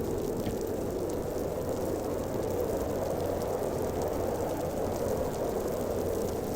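Snowstorm wind blowing steadily: an even, low rush that neither gusts nor fades.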